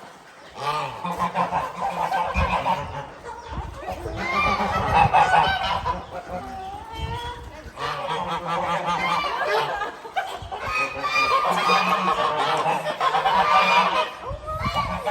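A flock of geese honking, many calls overlapping almost without a break, with a few brief lulls.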